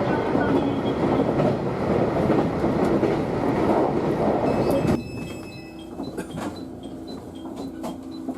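Train running on the rails, a steady rumble with wheel clatter, which drops away suddenly about five seconds in to a much quieter background with faint tones and clicks.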